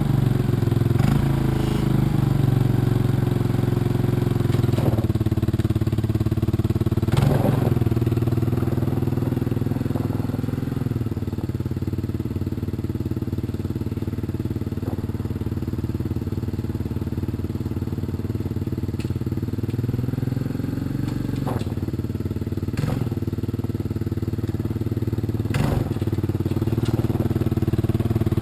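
Honda TRX200SX quad's single-cylinder four-stroke engine running steadily at a fast idle, set too high, through a rotted, cracked exhaust. Its speed sags slightly partway through and picks up again, with a few light clicks.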